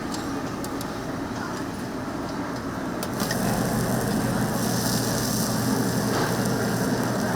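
Steady rushing noise of a strong cooking flame under a cast-iron cauldron-lid pan of spicy braised chicken. It gets louder about three seconds in, and a steady low hum joins it.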